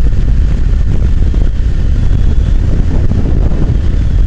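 Wind buffeting a microphone on a moving motorcycle: a loud, steady low rumble, with the motorcycle's engine running beneath it.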